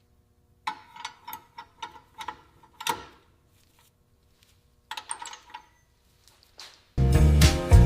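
Light mechanical clicks and taps in two short runs with a pause between, then music starts near the end.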